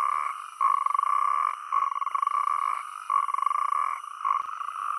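Male natterjack toads giving their rattling mating calls: a chorus of loud trills, each about a second long, following one another with short breaks. This is the advertisement call that females judge the males by.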